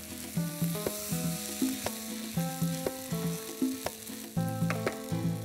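Chicken pieces sizzling as they fry in spice paste in a kadai, stirred with a wooden spatula that clicks and scrapes against the pan. Background music of held melodic notes plays underneath.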